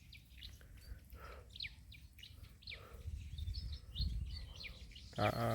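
Birds chirping with short, high, falling calls scattered through, over a low rumble of wind or handling noise; a man's voice starts near the end.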